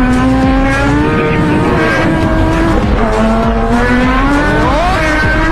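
1000cc motorcycle engine pulling hard under acceleration, its high-pitched whine climbing, dropping at a gear change about three seconds in, then climbing again.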